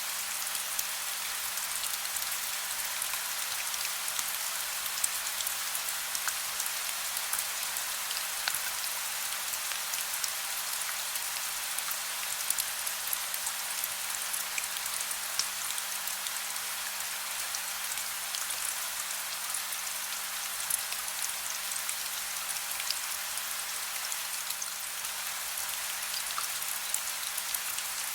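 Soft, steady rain, a dense hiss with many individual drops ticking on surfaces.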